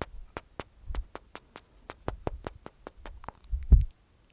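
Close-miked ASMR mouth sounds: crisp wet clicks from the tongue and teeth inside the mouth, repeating about five times a second, ending with a low thump near the end.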